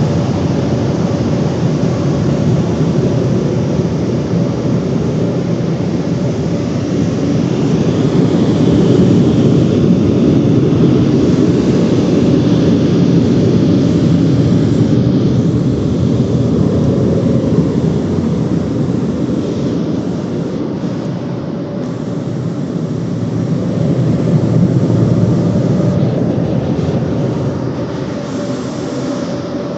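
Automatic car wash tunnel machinery running: a loud, steady rumbling noise that swells twice.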